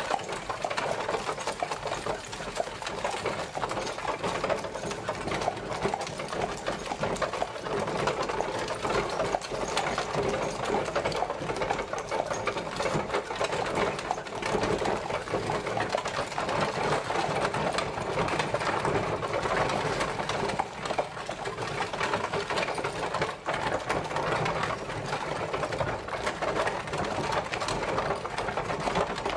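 Horse-drawn carriage on the move: a steady, dense rattle and clatter of wheels and wooden bodywork.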